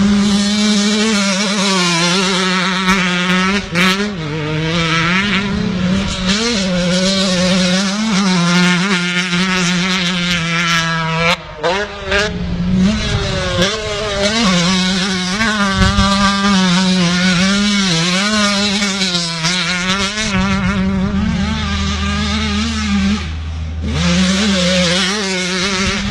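An 85cc two-stroke motocross bike engine revving up and down repeatedly as it is ridden, its pitch rising and falling with the throttle. The throttle briefly drops off about eleven seconds in.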